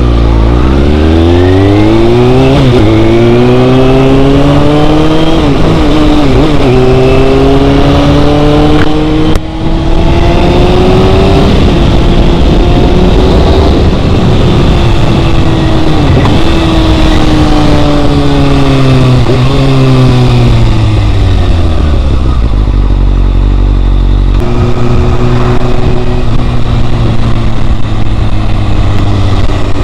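Motorcycle engine under way: its pitch climbs in steps with short drops at each gear shift, then falls as the bike slows about two-thirds of the way through, and holds a steady note near the end. Heavy wind rush runs underneath.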